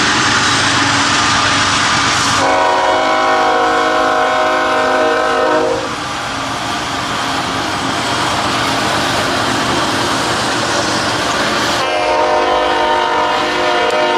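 Freight locomotive air horn sounding over the loud rumble of a passing container train. One chord-like blast lasts about three seconds, and a second blast starts near the end.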